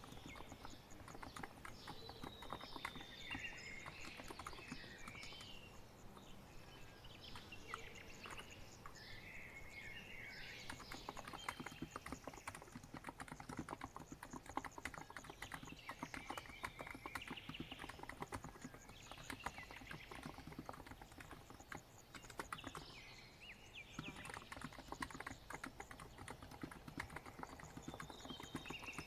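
Continuous typing on a COX Empress electro-capacitive keyboard: a steady stream of soft key clicks. Birds chirp faintly in the background.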